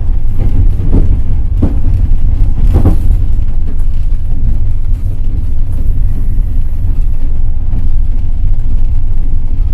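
Passenger train running on the rails, heard from aboard: a steady low rumble, with a few wheel knocks over rail joints in the first three seconds.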